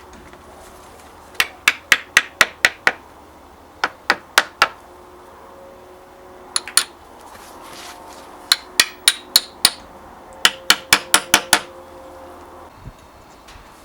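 Hammer striking in several short runs of quick, sharp blows, about four a second, with pauses between the runs.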